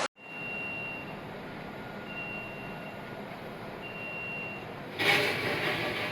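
Three evenly spaced high electronic beeps, each just under a second long, over a steady mechanical hum. About five seconds in, a louder machine-running noise cuts in.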